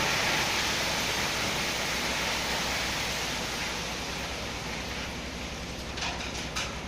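Stone pouring off the tipped bed of a Hyundai dump truck: a steady rushing hiss that slowly fades, over the truck's diesel engine running. A few sharp clicks of stones come near the end.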